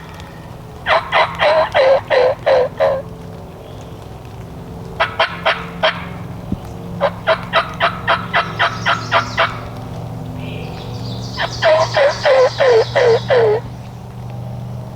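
Wild turkey yelping: four runs of quick, evenly spaced yelps, a short run of four, then runs of about eight to ten notes, each note dropping in pitch at its end. A faint low hum runs underneath.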